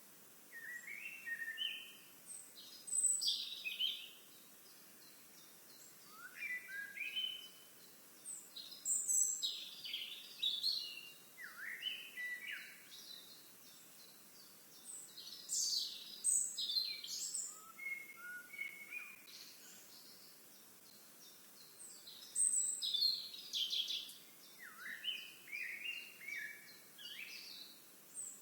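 Songbirds singing, short chirpy song phrases of quick rising and falling notes repeated every few seconds, over a faint steady outdoor background.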